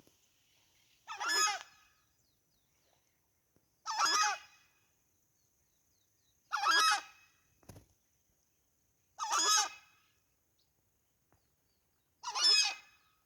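A large bird giving five loud honking calls, one about every two and a half to three seconds, each lasting under a second. A faint steady high-pitched tone runs underneath.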